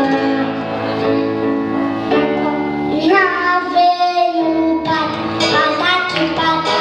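A children's song: a child's singing voice over instrumental accompaniment, moving from note to note.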